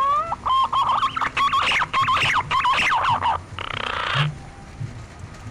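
Green pigeon (punai) singing: a rising whistled glide runs into a fast series of fluting, wavering whistles, followed by a short harsh rasp about three and a half seconds in.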